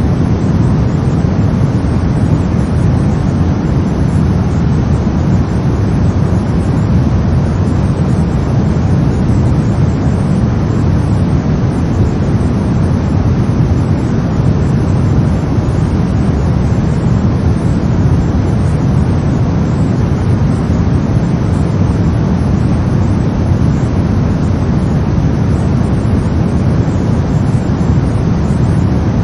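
Steady synthetic brown noise: an unchanging deep rumbling hiss, strongest in the low end and fading towards the highs.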